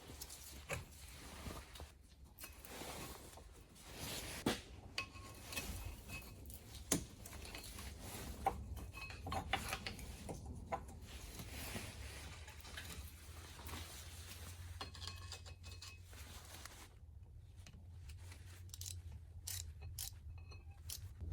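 Hand tools and metal parts clinking and knocking irregularly while a car's front brakes are worked on, with a few short metallic rings, over a low steady hum.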